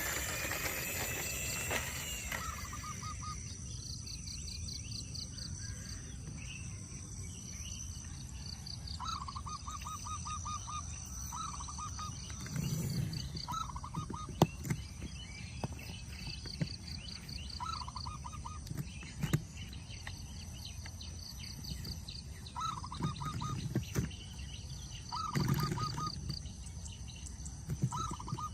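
Outdoor ambience: a bird repeatedly gives short, rapid trills, over a steady high insect drone and low background noise, with a few sharp knocks.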